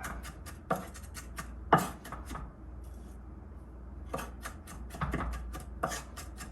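Kitchen knife rapidly chopping garlic on a cutting board, several quick strokes a second, in two runs with a short pause in the middle.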